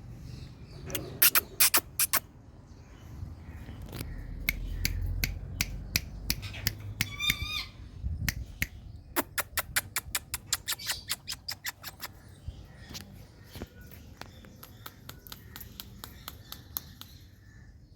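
Indian ringneck parakeet making sharp clicking sounds: a few loud clicks near the start, then a quick run of about four clicks a second, with one short warbling call just past the middle.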